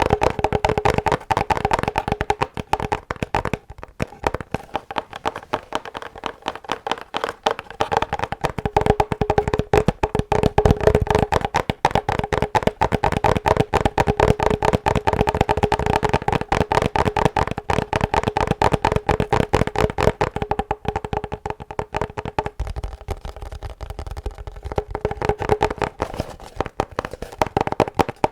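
ASMR tapping: fast, continuous taps on a hard object, many a second, with a steady ringing note under them.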